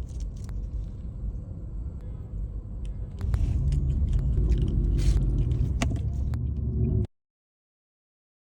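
Low steady rumble, as in a car's cabin, with scattered clicks and rustles of handling. It grows louder about three seconds in and cuts off abruptly about seven seconds in, leaving dead silence.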